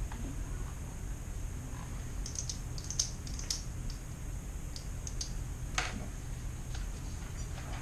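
Scattered light clicks and taps, irregular, the sharpest about three seconds in, over a steady low room hum.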